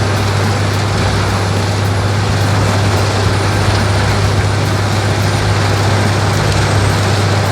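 Heavy diesel machinery of a branch-shredding operation, a grapple machine feeding a large wood shredder, running steadily with a strong constant low hum over a broad rushing noise.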